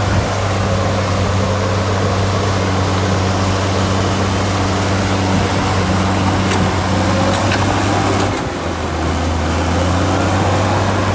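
Heavy machinery's diesel engine running steadily with a low hum; about eight seconds in its note drops slightly and the level dips briefly.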